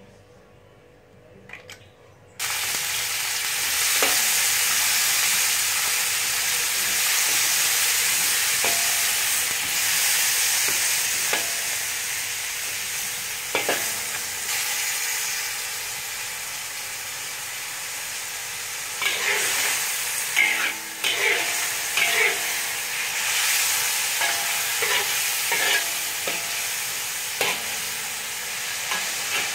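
Vegetables sizzling in hot oil in a wok, a loud steady frying hiss that starts suddenly about two seconds in. A wok spatula scrapes and clacks against the pan as the vegetables are stir-fried, more often in the second half.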